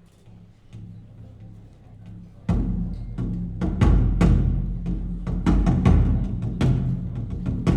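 Drum-heavy music played back over a high-end hi-fi loudspeaker system. A quiet low passage gives way, about two and a half seconds in, to a sudden run of loud, deep drum and percussion hits.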